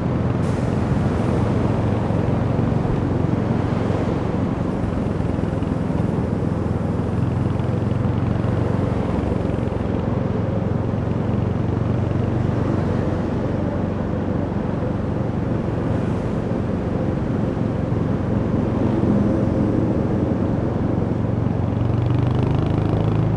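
Royal Enfield Hunter 350's 349 cc single-cylinder engine and exhaust running steadily while riding, with small changes in pitch and a steady haze of road and wind noise.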